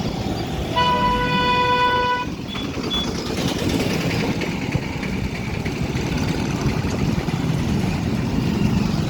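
Heavy road traffic with engines running. A vehicle horn sounds one steady note for about a second and a half near the start, followed by a short, higher-pitched beep.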